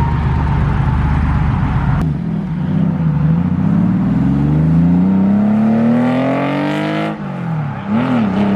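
Car engine under hard acceleration, its revs climbing steadily for about four seconds before dropping suddenly, then a short rise and fall in revs near the end.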